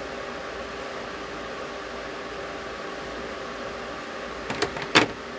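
Steady mechanical hum of a small motor or fan. Near the end come a few light clicks, then one sharper click or tap.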